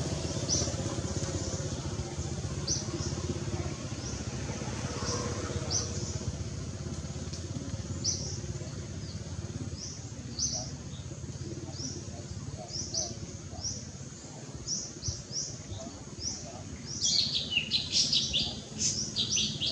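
Small birds chirping: short, high calls repeating every second or so over a steady low background rumble. The chirps come quicker and louder near the end.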